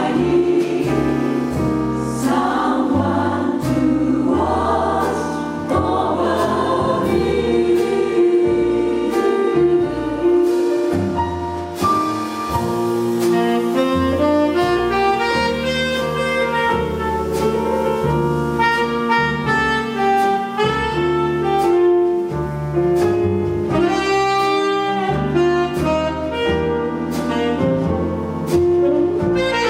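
A jazz chorus sings in harmony over a band of piano, bass and drums; after several seconds the voices give way to a saxophone playing a melodic line over the rhythm section.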